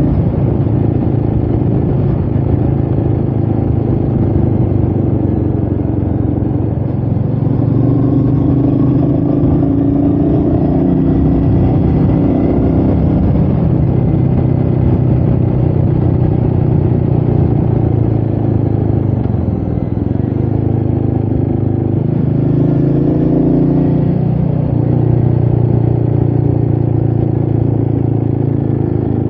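Royal Enfield Meteor 350's single-cylinder engine running while the bike is ridden, its pitch rising and falling with the throttle. The pitch dips about two-thirds of the way through, then climbs again.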